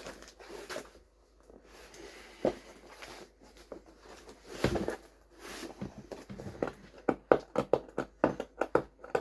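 Cardboard boxes and packaging being handled: scattered rustles and light knocks, one louder knock about halfway, then a quick run of short scraping strokes, about five a second, near the end.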